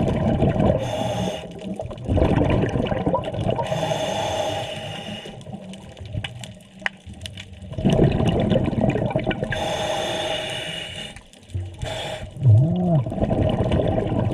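Scuba diver breathing through a regulator underwater: three long bursts of exhaled bubbles gurgling, each with the hiss of the regulator as the breath is drawn. Near the end there is a short low hum that rises and falls.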